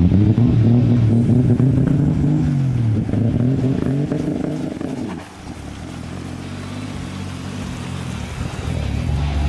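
Nissan Skyline R34's straight-six engine revving, its pitch rising and falling several times. About five seconds in the throttle lifts and it drops to a steadier, quieter run.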